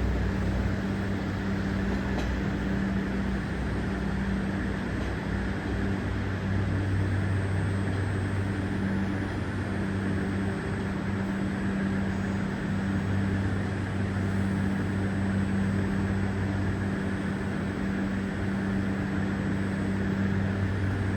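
A train at the station platform giving off a steady low hum, with no change in level.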